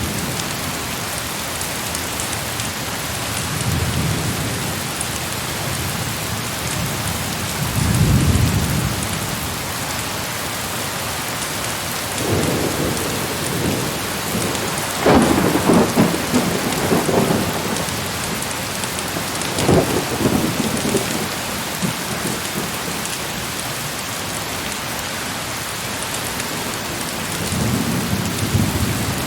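Heavy rain falling steadily, with rolls of thunder: low rumbles about four and eight seconds in, louder peals from about twelve to seventeen seconds and again near twenty, and another rumble building near the end.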